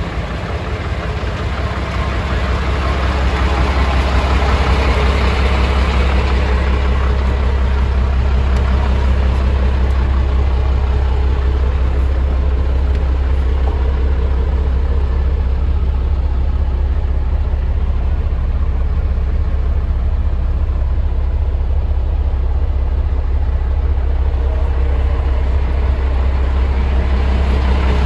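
Scania 92M truck's six-cylinder diesel engine running steadily at idle, with a deep low drone. It grows louder over the first few seconds, then holds an even level.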